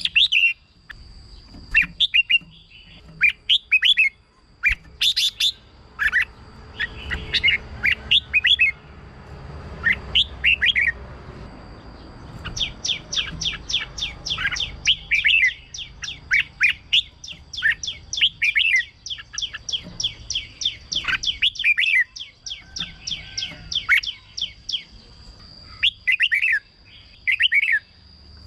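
Red-whiskered bulbul singing: bursts of quick, warbling whistled phrases, with a long run of rapid notes through the middle.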